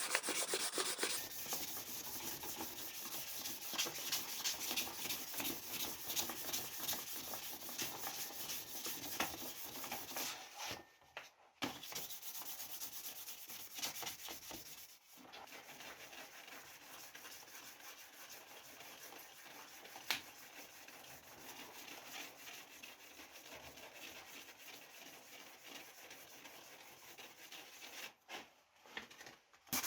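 Hand sanding in quick, even rasping strokes with no motor hum, broken by short pauses three times.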